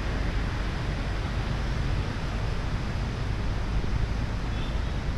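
Steady wind rushing over the microphone, with traffic noise underneath, as the recording moves along a busy city road.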